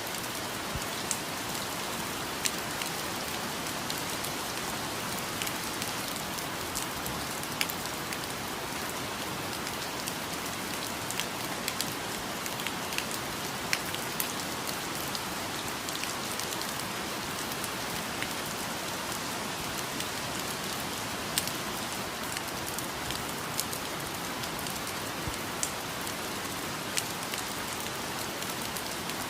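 Steady rain, with many individual drops ticking sharply throughout.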